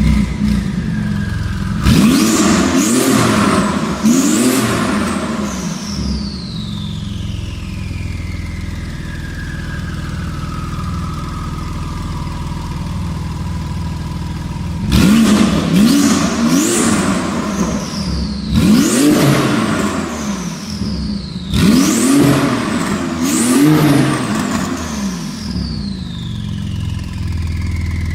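Porsche GT2 RS twin-turbo flat-six breathing through a Capristo stainless sport exhaust, idling and blipped through a series of quick free revs, each rising sharply and falling back to idle, two about two seconds in and several more in the second half.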